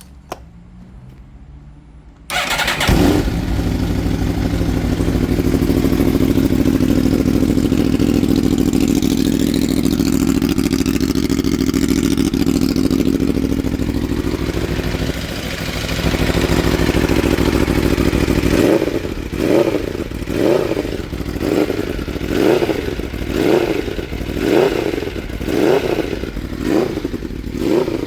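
Aprilia RSV4 V4 motorcycle engine starting about two seconds in and idling steadily, then blipped repeatedly, about once a second, near the end. The bike has a cam chain rattle.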